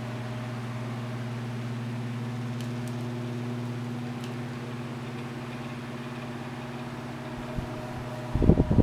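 Lakewood 1500A 15-inch oscillating table fan running on low speed: a steady low motor hum under the even rush of air. Near the end, a cluster of short knocks and handling noises.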